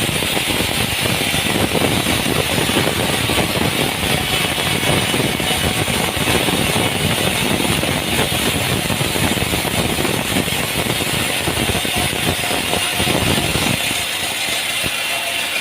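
Sawmill machinery running loud and steady with a dense mechanical rattle, easing off near the end.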